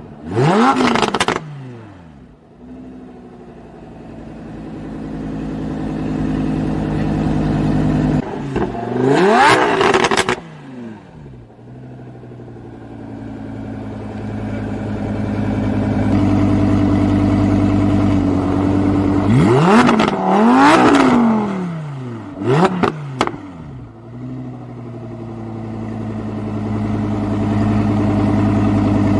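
Audi R8 V10's 5.2-litre naturally aspirated V10 breathing through a Capristo stainless-steel valved exhaust, revved in sharp blips that rise and fall quickly. There are four blips: one right at the start, one about nine seconds in, a double one around twenty seconds and a short one just after. Between them it settles back to a steady, deep idle.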